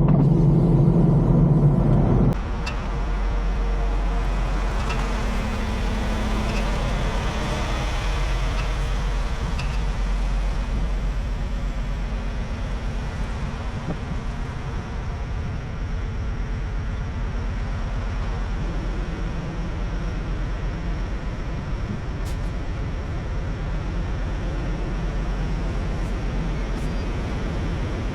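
A louder, steady hum stops abruptly about two seconds in. After that a semi-truck's diesel engine runs with a steady low rumble.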